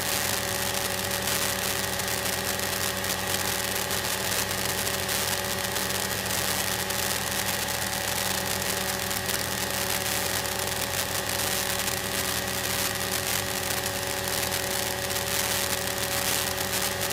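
Steady drone of a light single-engine airplane's engine and propeller heard inside the cockpit in level flight, with a constant hiss and an unchanging hum.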